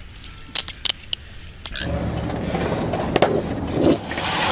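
A few sharp clicks, then about two seconds in a steady low rumble of a running vehicle comes in and holds.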